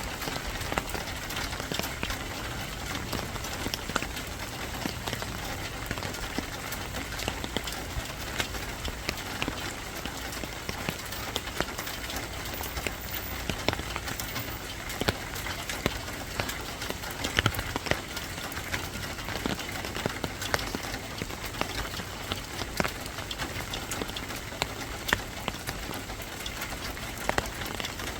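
Steady rain, with many individual drops ticking sharply on a hard surface over an even hiss.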